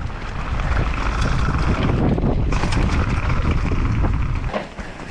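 Wind rushing over the microphone and tyres rumbling over a dirt trail as a mountain bike descends, with scattered clatters from the bike. The rumble drops away about four and a half seconds in.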